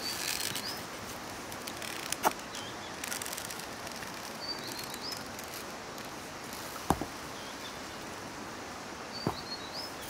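Small birds chirping in three short phrases over a steady outdoor hiss, with three short sharp knocks spread through.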